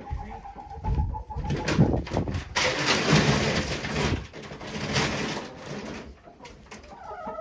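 Chickens in a coop making low cooing clucks, over loud rustling and handling noise.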